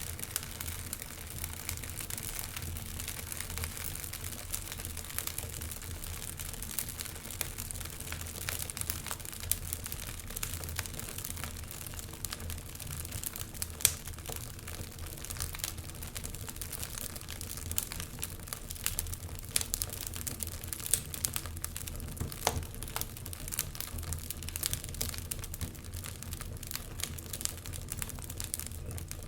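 Wood fire crackling in a fireplace: dense irregular crackles and snaps over a steady low rumble, with a sharper pop about halfway through.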